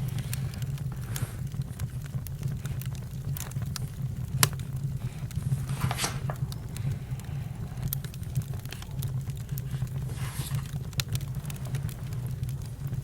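Campfire crackling: sharp pops at irregular moments over a steady low rumble, with a soft hiss swelling briefly about six seconds in and again about ten seconds in.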